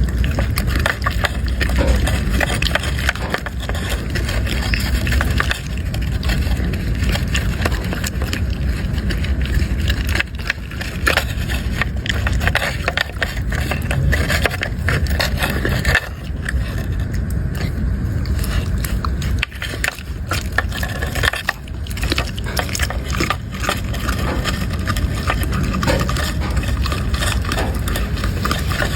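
A dog chewing and crunching food, a dense run of crackling crunches, over a steady low rumble.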